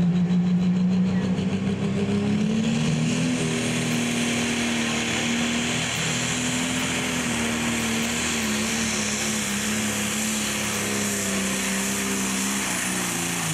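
Pro stock pulling tractor's turbocharged diesel engine running flat out under load. Its pitch climbs about two to three seconds in and then holds steady, with a high whine above it. Near the end the pitch starts to fall as the engine comes off full throttle at the end of the pull.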